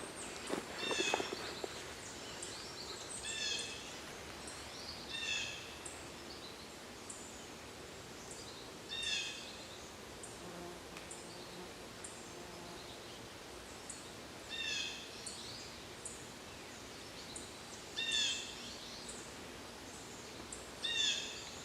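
A bird giving short, descending calls, about seven times, a few seconds apart, over a steady outdoor background.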